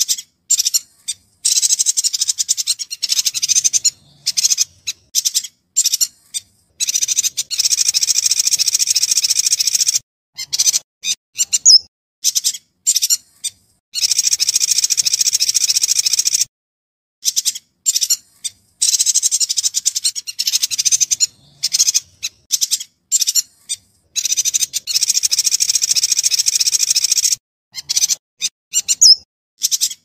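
Yuhina singing: dense runs of rapid high-pitched notes lasting two to three seconds, alternating with short separate calls and abrupt brief gaps.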